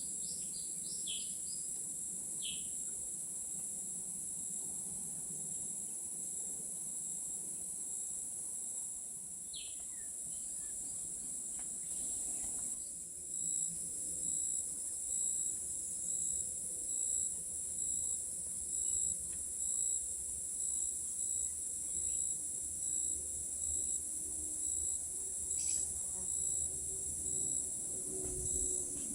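Tropical forest insects, crickets or cicadas, keeping up a steady high-pitched drone, with a few short bird chirps. About halfway through, a second insect call joins, pulsing evenly about once or twice a second.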